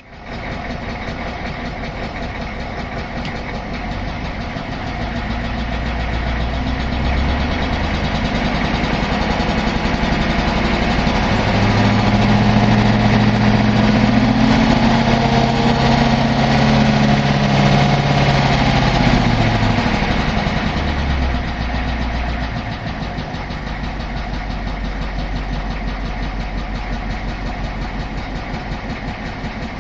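Ford 6.9 IDI V8 diesel in a 1986 F-350 running with an engine knock, heard from inside the cab. It idles, is revved up about a third of the way in and held there for several seconds, then drops back to idle about two thirds through.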